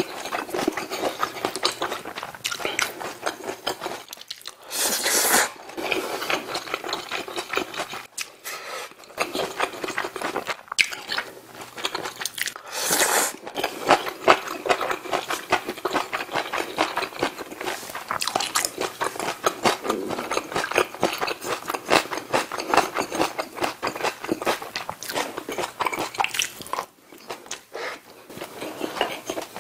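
Close-miked chewing and crunching of a home-cooked Korean meal of rice and side dishes, with irregular mouth clicks throughout. Two louder, hissy bursts stand out about five and thirteen seconds in.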